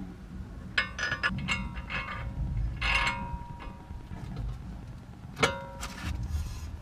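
Metal clinks and clanks of steel parts and tools being handled: a quick run of light clinks, then a stronger clank about 3 s in and a sharp one about 5.5 s in, each ringing briefly.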